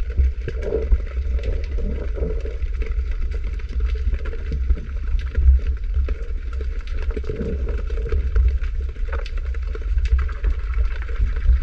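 Underwater sound picked up by a diver's camera: a steady low rumble with scattered small clicks and crackles throughout.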